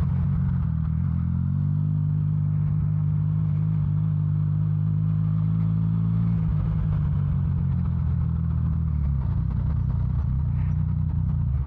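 Motorcycle engine running while riding, its note holding steady and then falling in a couple of steps as the bike slows. The sound cuts off abruptly at the end.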